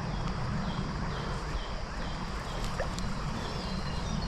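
Creek water running steadily, with a high, short falling chirp repeated about twice a second.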